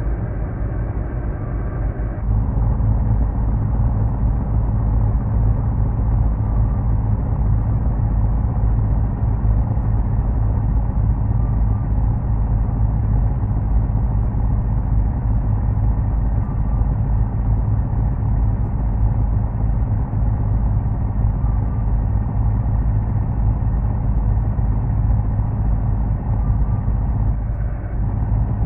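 Heavy truck driving under way: a steady low rumble of engine and road with a constant engine note. The sound gets louder and changes character about two seconds in, and shifts again near the end.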